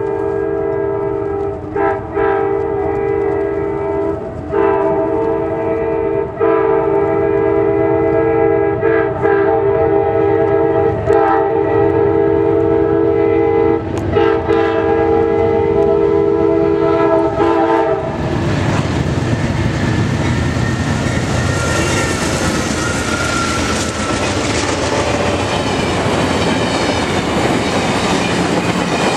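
Approaching diesel locomotive's air horn sounding a loud chord in long blasts with short breaks between them. About two-thirds of the way in, the horn gives way to the steady rush and clatter of stainless-steel passenger cars' wheels rolling past close by.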